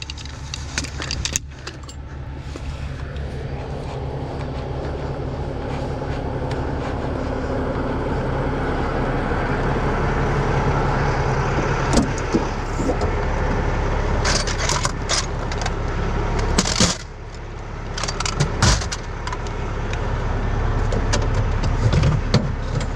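Heavy diesel tow truck engine idling steadily, with metal hand tools clinking and clattering as they are put away and a few sharp knocks.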